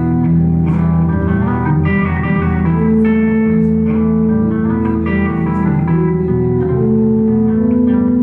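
Live band playing an instrumental passage: sustained guitar notes and chords over a bass line, with no singing.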